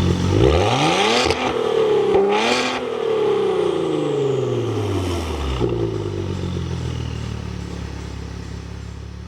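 Sports car engine revving and accelerating, its pitch rising sharply twice and then falling away, before climbing again. The engine note fades steadily over the last few seconds.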